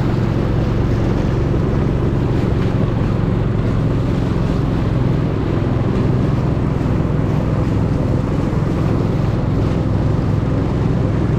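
Long-tail boat engine running steadily at speed, with wind buffeting the microphone.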